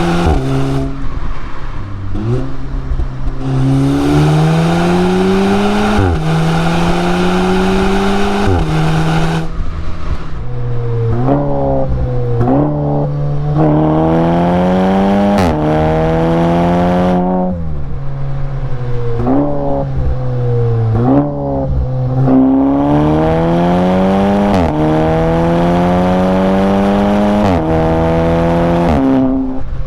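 Audi S3's turbocharged four-cylinder engine accelerating hard through its exhaust. The pitch climbs steadily through each gear and drops sharply at each upshift, pull after pull.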